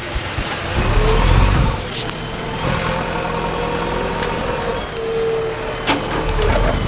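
A motor vehicle's engine running, with a heavy low rumble about a second in and a steady whine held through the rest.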